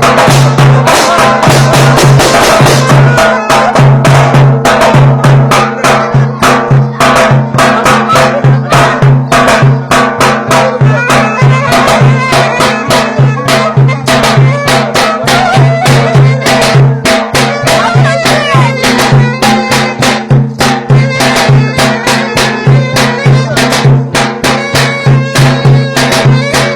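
Traditional Turkish folk dance tune played loud, with a fast, steady drum beat under a pitched wind-instrument melody.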